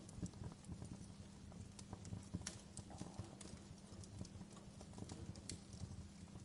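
Wood fire crackling in a fireplace: irregular snaps and pops of burning logs, several a second, over a low steady hum.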